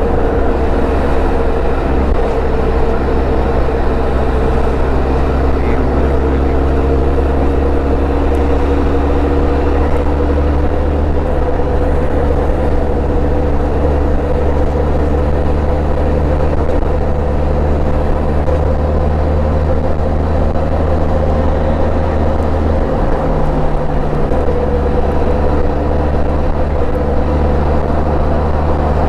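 Motorcycle engine running steadily at cruising speed, its note holding nearly constant, under a continuous rush of riding noise.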